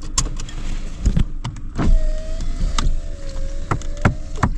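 A car moving slowly with a low rumble and many short knocks and rattles, as on a rough road. A steady thin whine rises over it for about two seconds in the middle.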